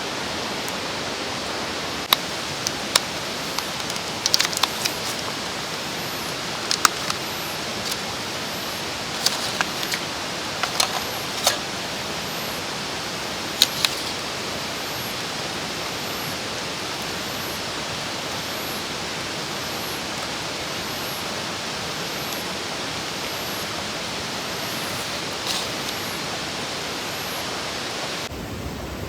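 Steady rush of a mountain stream, with a scattered run of sharp clicks and knocks over the first half.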